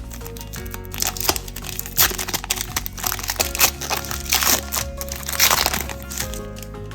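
Plastic trading-card pack wrapper crinkling and crackling as it is torn open and handled, in loud irregular bursts from about a second in until near the end. Background music plays underneath.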